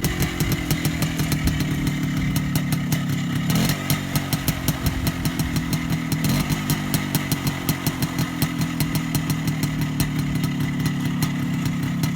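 Minsk 125's single-cylinder two-stroke engine idling steadily with an even rapid popping from the exhaust, running on its repaired Pacco carburettor.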